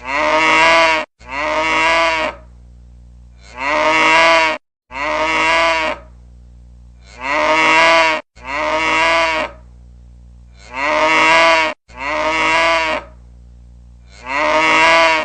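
Cow mooing, looped as a ringtone: pairs of moos, each about a second long, repeating about every three and a half seconds, with a faint low hum between them.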